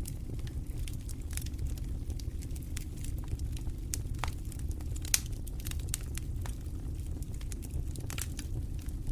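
Campfire crackling, with irregular sharp pops and snaps, one louder pop about five seconds in, over a steady low rumble of wind.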